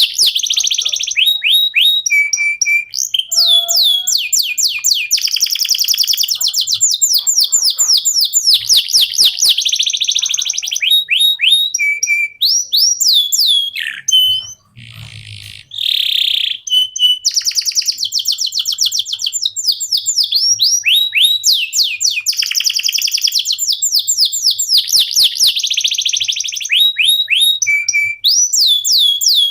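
Domestic canary singing a long, continuous song of fast trills and repeated downward-sweeping whistles, with a brief pause about halfway through.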